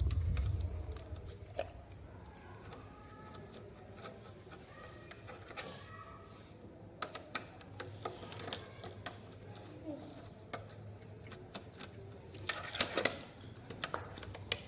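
Scattered small clicks and taps of hand tools and plastic trim as the screws and screen panel of a car navigation head unit are worked loose, with a louder cluster of clicks near the end.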